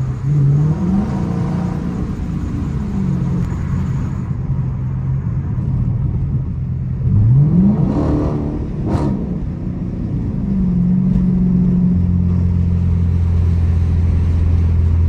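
Dodge Challenger R/T's 5.7-litre Hemi V8, heard from inside the cabin at highway speed over road noise. The engine note climbs a couple of times as the car accelerates, most sharply about seven seconds in, and a steady low drone sets in about twelve seconds in.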